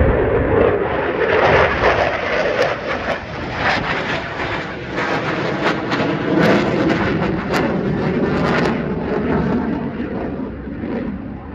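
Blue Angels jet flying past, a loud rough roar that dies away over the last couple of seconds.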